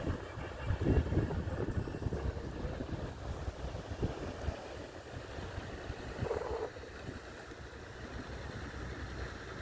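Wind buffeting the microphone, gusting hardest in the first couple of seconds, over the low running of a fishing boat's engine. A brief higher-pitched sound comes just after six seconds in.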